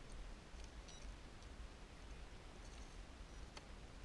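Quiet background with a faint low rumble and a few soft, isolated clicks.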